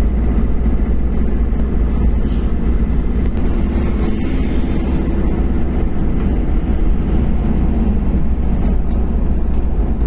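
A road vehicle driving: a steady, loud low rumble of engine and road noise.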